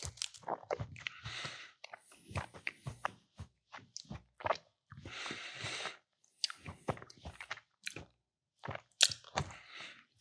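Close-miked chewing of soft chocolate and peanut butter snack cakes (Funny Bones): irregular wet, smacking mouth sounds and small clicks, with two longer hissing stretches.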